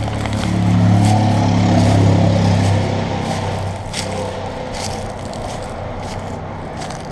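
A motor vehicle passing on the highway: a low engine hum that swells to its loudest about one to two seconds in, then fades away. A few sharp crunching footsteps follow near the middle.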